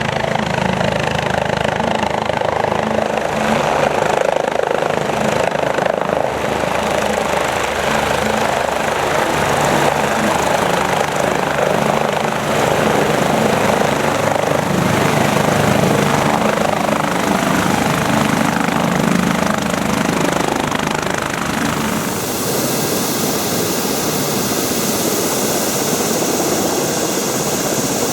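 Kawasaki BK 117 B-2 twin-turbine helicopter running, a loud steady rotor and engine noise. About 22 s in, the sound changes suddenly and a high, steady turbine whine made of several tones comes to the fore.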